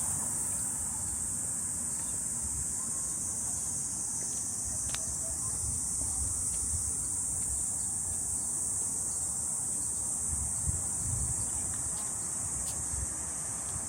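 Steady, high-pitched drone of insects in the trees, with low wind rumble on the microphone and a few faint clicks.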